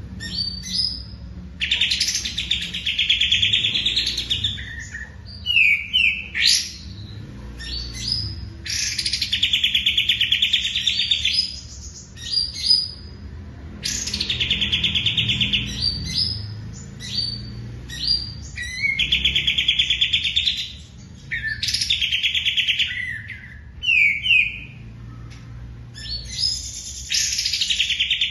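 A songbird singing, repeating long, fast trilled phrases of two to three seconds about every five seconds, with short rising whistled notes in between.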